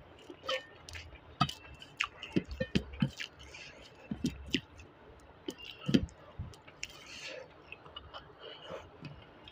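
Mouth sounds of chewing a mouthful of rice, with fingers mixing rice and chutney on a steel plate. Irregular short clicks and squishes, the loudest about six seconds in.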